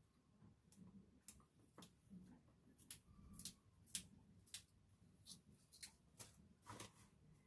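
Faint, irregular sharp clicks and light taps, about two a second, over near silence.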